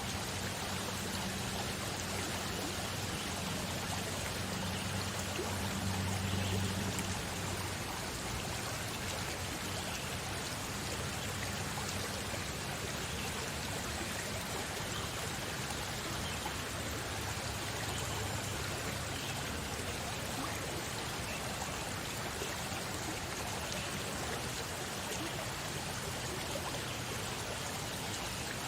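Steady rushing of flowing water from a stream or waterfall, even and unbroken throughout.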